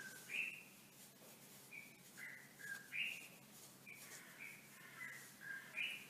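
Birds calling: a loose run of about ten short, whistled chirps at varied pitches, several of them sweeping up.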